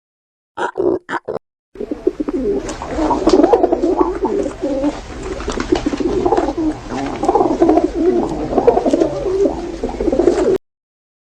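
A flock of pigeons cooing, many calls overlapping in a dense, continuous chorus that cuts off suddenly near the end. It is preceded about a second in by three brief calls.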